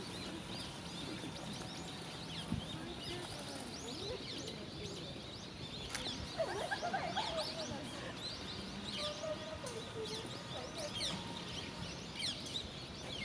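Many small birds chirping and twittering in quick, overlapping calls, with a burst of lower calls about halfway through.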